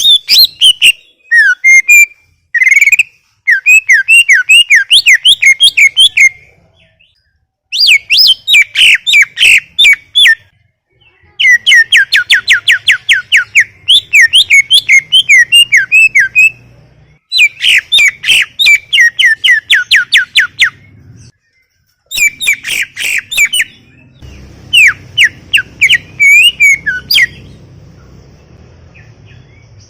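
Green leafbird (cucak ijo) singing loudly in long bouts of rapid, sharply pitched chirping and whistled notes, with short pauses between the bouts; the song thins out near the end.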